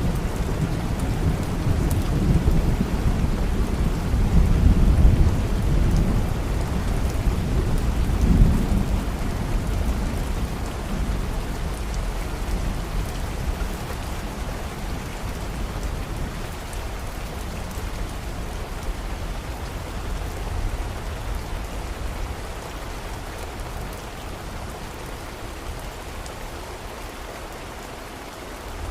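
Steady heavy rain with a long low rumble of thunder that swells twice in the first third and then dies away, leaving only the rain.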